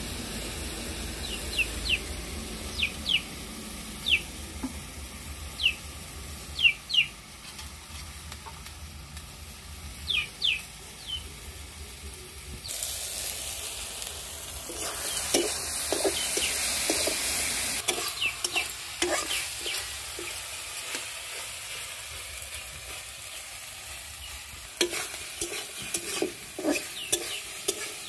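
Tomatoes frying in a metal karahi, stirred and scraped with a metal spatula in short strokes. About halfway through the sizzle jumps to a louder, steady hiss as chopped green onion leaves go into the hot pan, and near the end quick clinks of the spatula against the pan come as she stirs them in.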